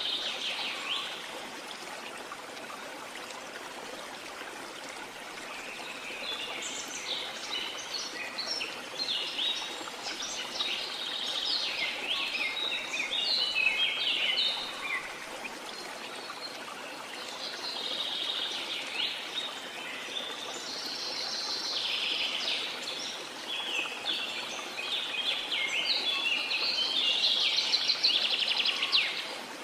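Waterfall rushing with a steady hiss, with birds chirping rapidly over it in bouts that come and go. The chirping is sparse for the first few seconds.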